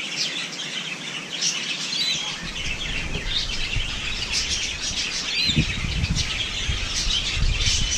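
A flock of birds chirping and chattering without a break, many short high calls overlapping. About two and a half seconds in, a low rumble joins and swells near the end.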